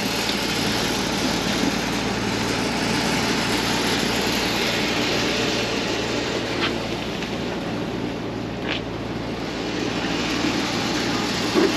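Heavy vehicle engine running steadily at low speed, a continuous drone with a low hum and a couple of faint ticks.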